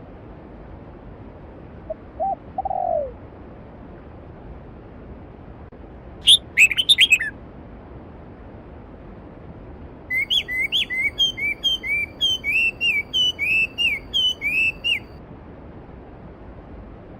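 Stream water flowing steadily with birds calling over it: a short low call about two seconds in, a brief burst of high calls around six seconds, then a long run of quick repeated chirps from about ten to fifteen seconds.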